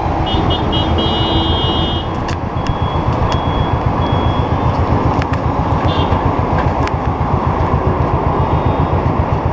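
Royal Enfield single-cylinder motorcycle engine running under way, a steady fast thumping. A few short high beeps sound in the first few seconds.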